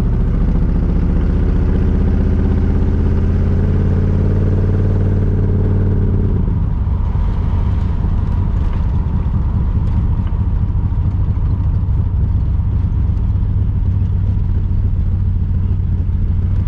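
1982 Chevrolet Camaro's engine and exhaust, heard from inside the cabin while driving. The engine pulls with its note rising steadily for about six seconds, then drops suddenly and settles to a steady cruise.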